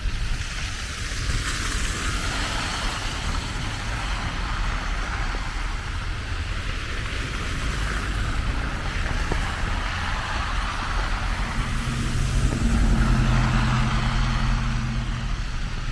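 Street traffic: a steady hiss of tyres and road noise over a low rumble, with one vehicle's engine hum growing louder about twelve seconds in as it passes close by.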